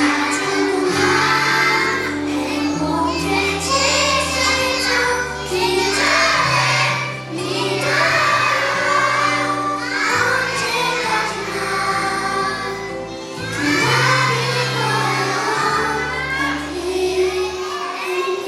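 A group of young children singing a song together over instrumental accompaniment with held bass notes.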